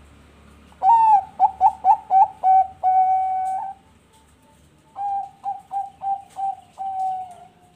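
Bangkok-type zebra dove (perkutut) cooing: two phrases, each a quick run of short, clipped notes that ends in a longer held note, with a pause of about a second between them.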